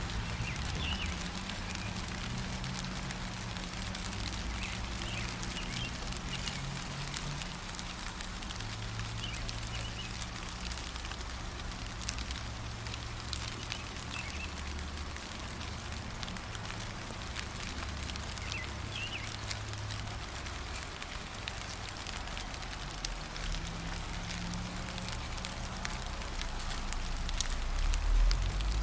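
Steady gentle rain with scattered drops pattering, and a few brief bird chirps now and then. A low rumble runs underneath and swells near the end.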